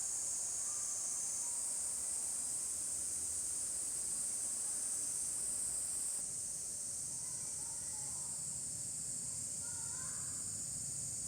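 Steady, high-pitched drone of a summer insect chorus, unbroken throughout, with a slight change in tone about six seconds in. A few faint short chirps sound faintly behind it near the end.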